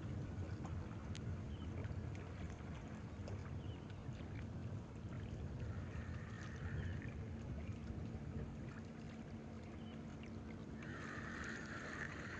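Steady low hum of a boat engine out on the water, under outdoor noise. A faint, wavering, higher-pitched sound comes in about six seconds in and again near the end.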